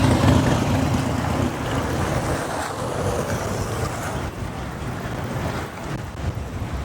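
Motorcycle riding in city traffic: engine and road rumble with wind on the microphone, loudest in the first second or so, then easing off.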